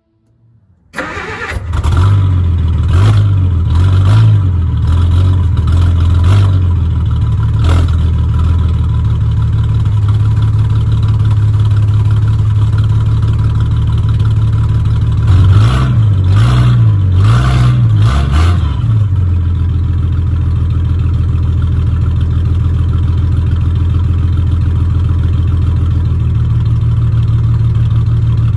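1954 Hudson's 308 straight-six engine starting up about a second in and revved in several quick blips. It is revved again about halfway through, then settles into a steady idle.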